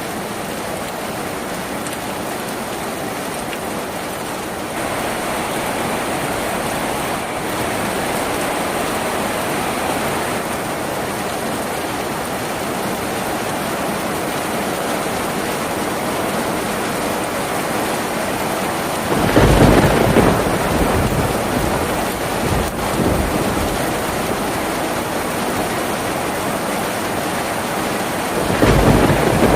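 Steady heavy rain drumming on a tin roof, growing a little heavier about five seconds in. Two low rumbles of thunder break through, one about two-thirds of the way in and another near the end.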